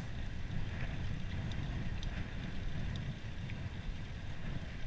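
Steady low wind rumble on the microphone while riding a gravel bike, with a few faint ticks scattered through.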